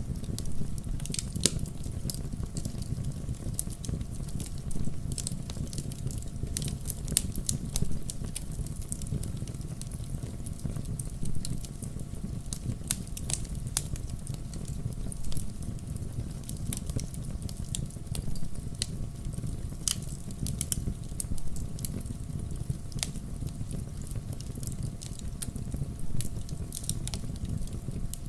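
Wood campfire crackling: sharp, irregular pops and snaps scattered over a steady low rumble of burning flames.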